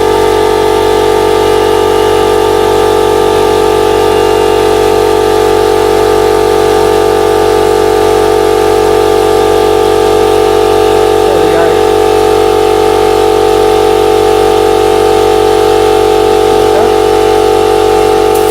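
Electric piston air compressor running steadily, its pump topping the tank back up after air has been drawn off for a tyre.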